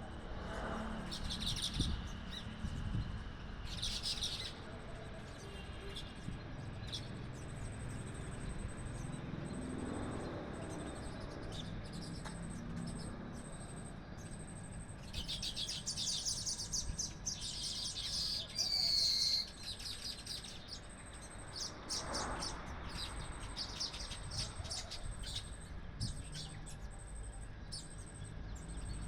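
Small birds chirping: short bursts of high chirps early, then a bout of rapid chattering with a clear whistled note about fifteen to twenty seconds in, over a steady low rumble.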